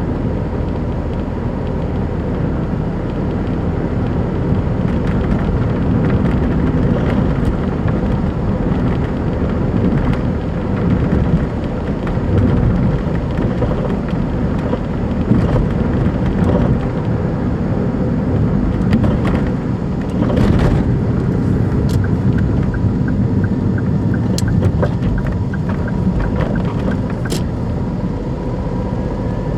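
Daihatsu Move Custom RS (L175S) running, a steady low engine and road rumble with scattered knocks, louder than normal because its engine mount bushings are worn and torn. A run of faint, evenly spaced light ticks comes about three-quarters of the way through.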